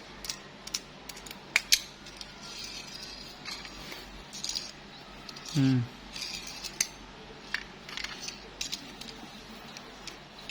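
Toy cars being handled: a run of small clicks and taps of hard plastic or metal parts, with a light scraping rustle a few seconds in.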